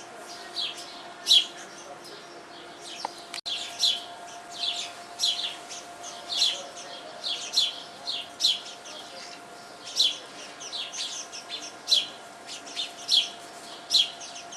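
Small backyard birds, sparrows, chirping: a steady run of short, sharp chirps, each falling in pitch, about one or two a second.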